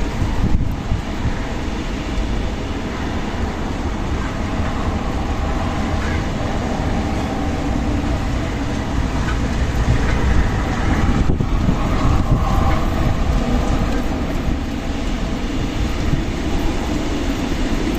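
Strong desert wind blowing steadily, with a deep rumble.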